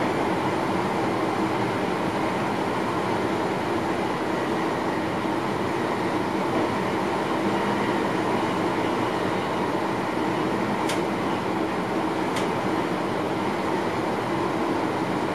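Passenger train running, heard from inside the driver's cab: a steady rumble and rush of wheels on rails. Two short sharp clicks about a second and a half apart come near the end.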